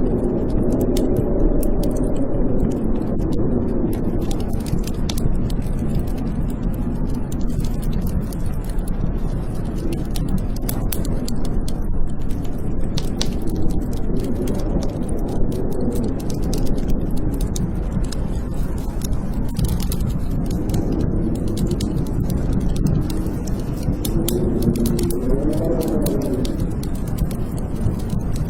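Blizzard wind howling in gusts, its whistling pitch rising and falling, with a strong gust near the end. A wood fire crackles and pops over it in many sharp little snaps.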